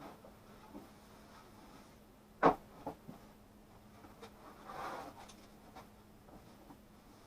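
Small handling sounds at a workbench: a sharp knock of something set down about two and a half seconds in, a lighter click just after, then a short rustle a couple of seconds later, over a faint steady hum.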